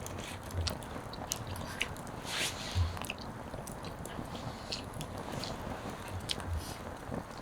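A person eating close to the microphone: biting and chewing with soft crunches and squishes, small clicks scattered throughout, and a few soft low thumps.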